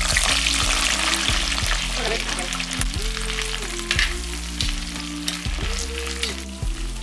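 Small whole brinjals sizzling as they fry in hot groundnut oil in a clay pot, stirred and turned with a steel ladle.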